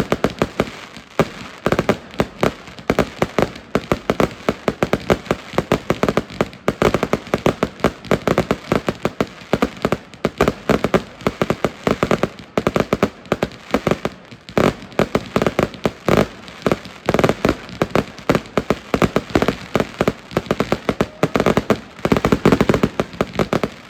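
Consumer fireworks cakes firing a dense, continuous barrage: rapid launch thumps and bursting shells, several shots a second, with sharper, louder cracks scattered throughout.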